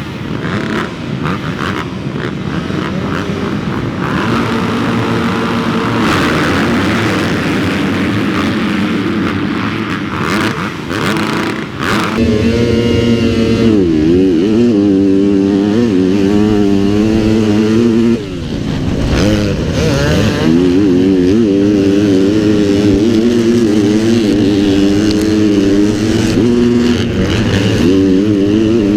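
Dirt bike engine being ridden, revs rising and falling over and over. About twelve seconds in it gets louder and its pitch swings up and down more plainly with the throttle.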